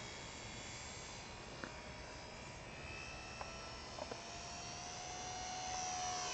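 Electric motor and propeller of a Hobby Zone Super Cub LP radio-controlled plane whining in flight, a thin high-pitched drone that grows louder near the end as the plane comes closer. A few faint clicks are heard.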